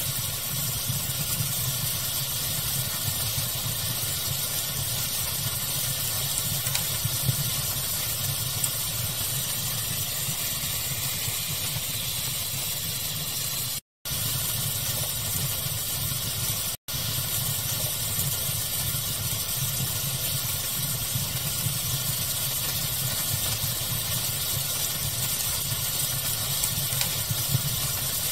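Steady hiss of pink noise mixed with a crackling wood fire, with small pops here and there. The sound cuts out completely twice for a split second, about halfway through and again three seconds later.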